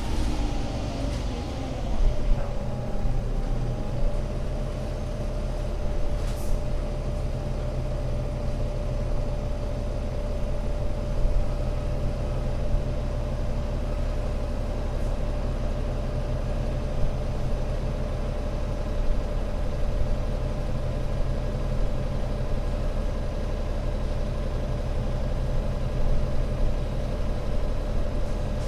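Alexander Dennis Enviro500 MMC Euro 6 double-decker bus's diesel engine running with a steady low drone. Pitches fall over the first few seconds, then it settles, with a steady whine above the drone.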